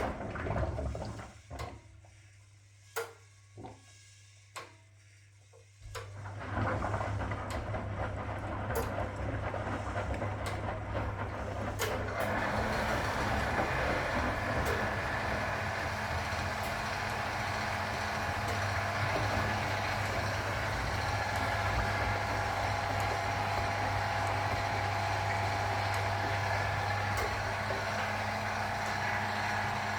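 1961 AEG Lavamat Noris washing machine running through its programme: a short lull with a few sharp clicks, then its motor hum starts about six seconds in. About twelve seconds in, a louder, steady rushing noise joins it and carries on.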